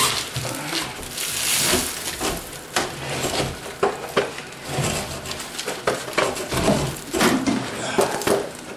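Old pressed-wood shelf section being yanked up by hand: an uneven run of cracks, creaks and knocks, with a longer scraping rasp about a second in, as the board tears away from its framing.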